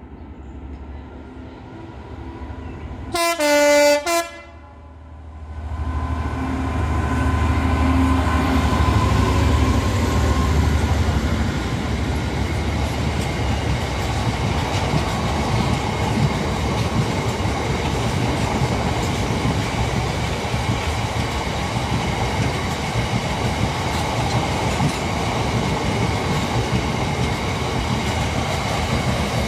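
A Class 66 diesel freight locomotive gives a short two-tone blast on its horn about three seconds in, then passes with its engine drone. A long rake of open freight wagons follows, rolling by with steady wheel-on-rail clatter.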